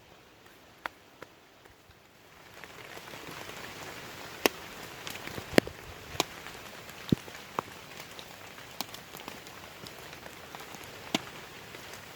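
Rain falling, a steady hiss with heavy drops plinking sharply on a surface. It comes in about two and a half seconds in, after a quieter stretch with only a few isolated drips.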